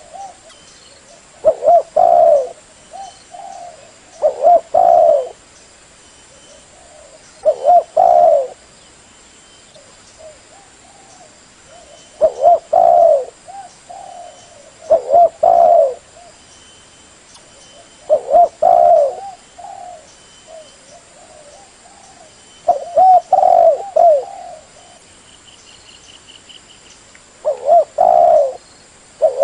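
A dove cooing over and over, in short phrases of a few coos repeated about every three to four seconds.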